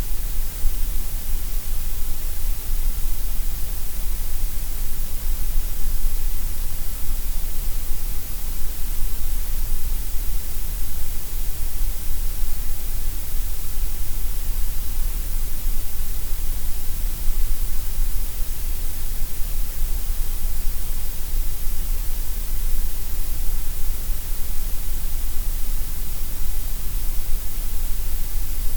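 Gray noise: a steady, loud, even hiss spread across the whole pitch range, unchanging throughout.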